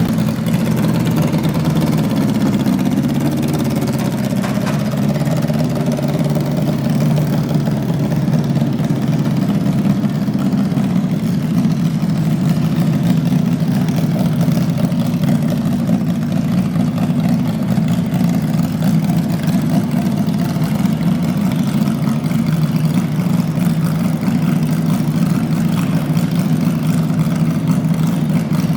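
A modified pulling garden tractor's engine running at a steady speed, a loud even drone with only slight changes in pitch during the first few seconds.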